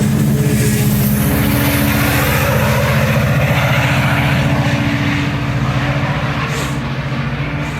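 Diesel locomotive engine running close by, a loud, steady, deep drone with a fast pulse. It eases off slightly in the last few seconds.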